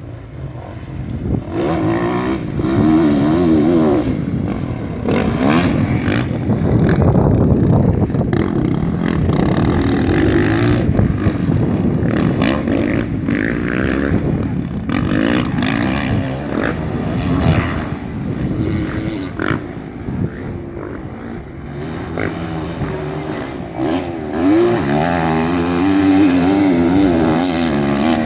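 Racing motorcycle engines revving up and down as the bikes run past, their pitch rising and falling, with the loudest passes near the start, in the middle and near the end.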